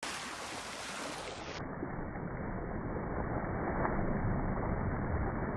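Seaside ambience: a steady rush of wind and sea water, with a deep rumble and no distinct individual waves.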